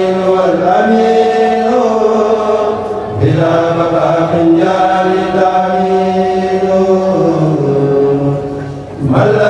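A kourel, a Mouride chanting group, chanting a khassida without instruments: long held notes sung in phrases, with a short break for breath about three seconds in and again near the end.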